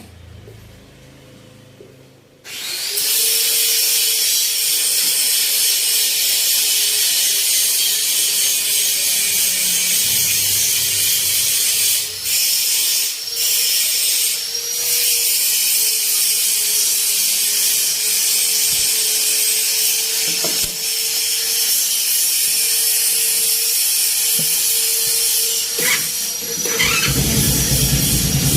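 A power tool running steadily with a high hissing noise over a steady hum, starting about two and a half seconds in and briefly letting off a few times partway through.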